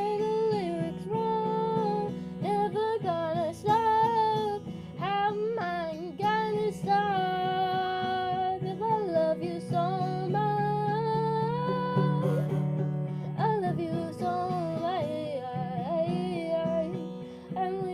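A song sung with an acoustic guitar: a voice carries the melody, with long held notes, over a plucked and strummed guitar accompaniment.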